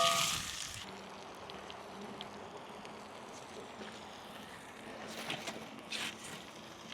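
Food sizzling in a pan fades out within the first second. Then quiet outdoor ambience with faint wind noise and a couple of soft rustles near the end.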